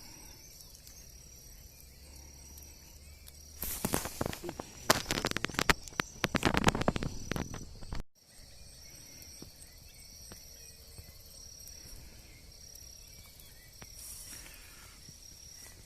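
Crickets or other insects chirping steadily in high, pulsing trills. From about four seconds in to about eight seconds in there is a stretch of loud crackling and clicking.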